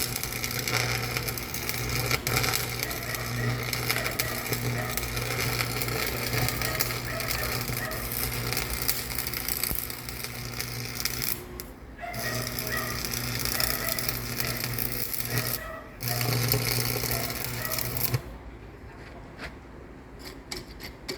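A machine running with a steady low hum and dense mechanical noise. It stops briefly twice and shuts off about eighteen seconds in, leaving a few scattered clicks.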